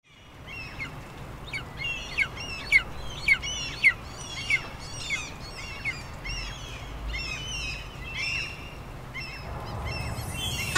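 Birds calling: a busy run of short, downward-sweeping calls, several a second, loudest in the first four seconds, over a low steady rumble. Music begins to come in near the end.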